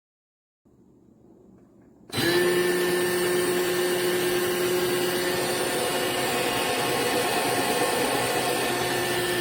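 Ollygrin electric conical burr coffee grinder switching on about two seconds in and running steadily: a constant motor whine over a noisy grinding hiss. A faint low rustle comes just before it starts.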